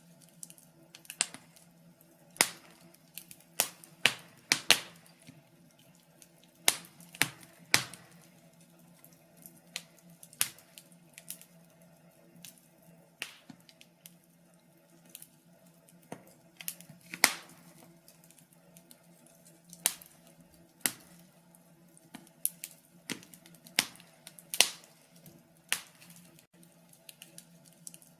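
Wood fire crackling: sharp, irregular pops and snaps, a few of them loud, coming every second or so with quieter ticks between.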